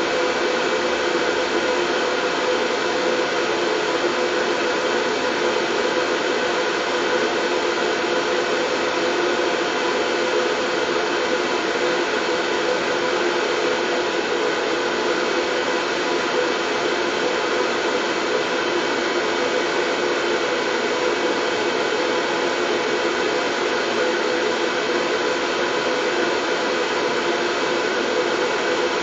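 Steady white noise that does not change, with a faint hum running through it.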